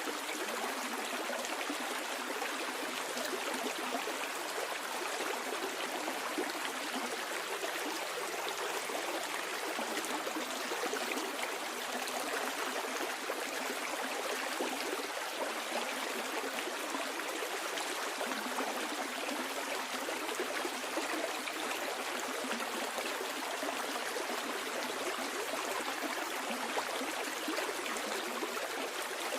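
Stream water flowing over rocks, a steady unbroken rushing and babbling.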